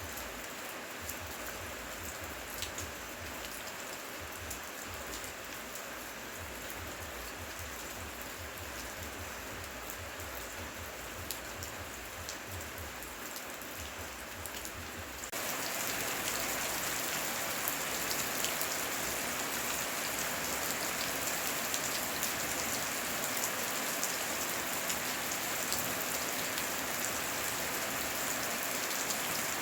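Heavy rain falling steadily, with scattered sharp drop ticks over a dense hiss. About halfway through, the rain abruptly gets louder and stays louder.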